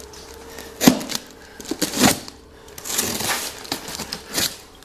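A boxed guard roller being unpacked: packaging rustling and tearing, with several sharp knocks and clatters of parts and box being handled.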